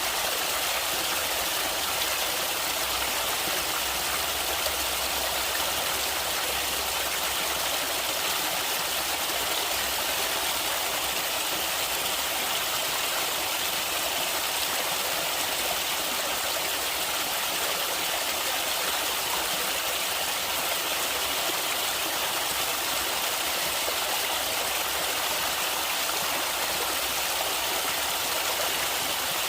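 Flowing river water, a steady rushing hiss with no change or break.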